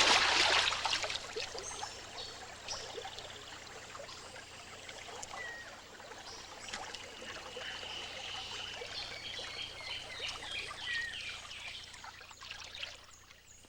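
Water running and splashing, loudest at the start and settling over the first couple of seconds, with a few faint chirping calls over it.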